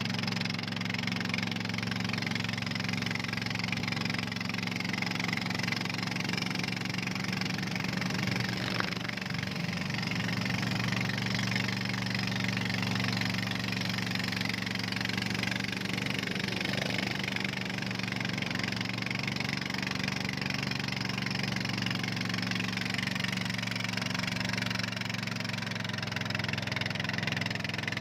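Boat engine running steadily at an even pitch, with a steady hiss over it.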